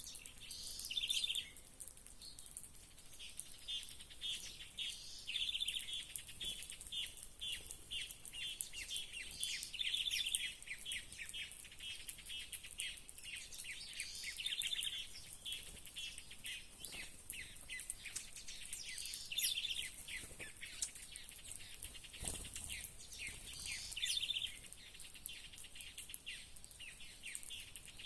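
Small songbirds chirping and calling, with quick runs of short high chirps coming again and again, over a steady high hiss.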